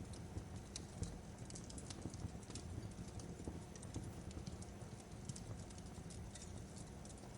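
Wood fire crackling in a fireplace: irregular sharp snaps and pops over a low steady rumble of the flames.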